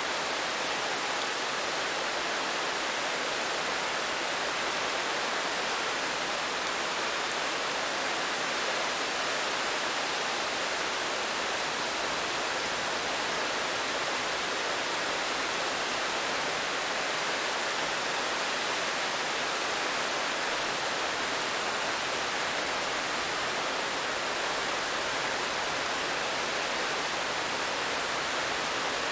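Steady rain falling, an unbroken even hiss with no single drops or other sounds standing out.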